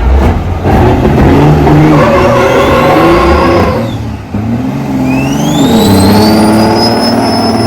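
Turbocharged diesel truck engine accelerating hard under full throttle, a high whistle rising with the engine. It drops briefly about four seconds in, as at a gear shift, then climbs again.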